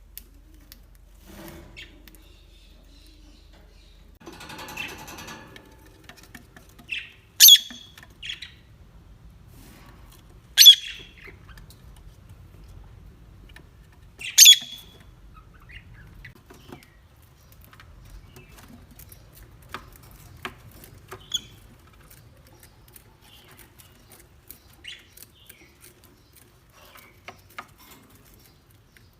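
A parrot giving three loud, short, shrill squawks a few seconds apart, the first about a quarter of the way in. Faint chirps and small clicks come in between, and a brief rustle comes about five seconds in.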